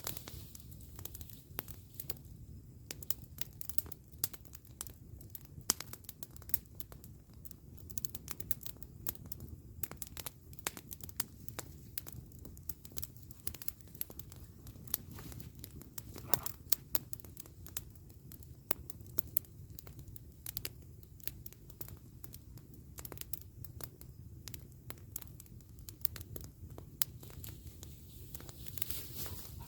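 Wood campfire crackling: a steady run of irregular sharp pops and snaps over a low, even rumble.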